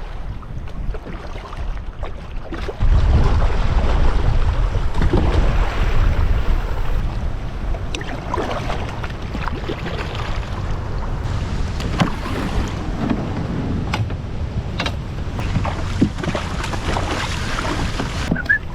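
Waves splashing around a canoe on choppy open water, with wind rumbling on the microphone that gets much louder about three seconds in. A few sharp knocks come now and then.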